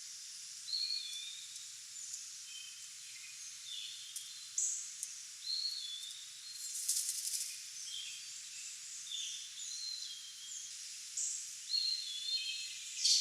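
Wild birds chirping and calling: many short, high notes scattered irregularly, some sliding down in pitch, over a steady hiss. A brief rasping burst comes about seven seconds in.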